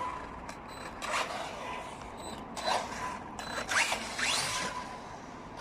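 Brushless electric motor of a Helion Avenge 10MT XLR RC monster truck whining in several short throttle bursts, each rising in pitch as the truck speeds up.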